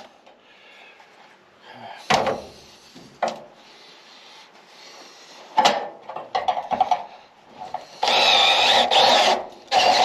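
Power drill boring a hole in a metal bracket. It runs in a long burst about eight seconds in and starts again at the very end. Before that there are a few sharp knocks and clicks from handling the part and tool.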